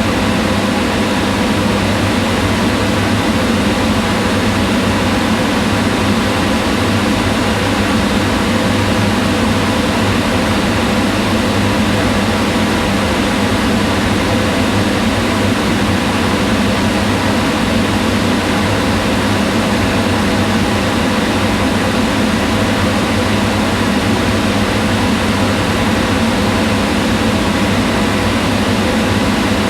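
Kitchen range hood fan running steadily: an even, unchanging whirring hum, heaviest low down, with a few faint steady tones.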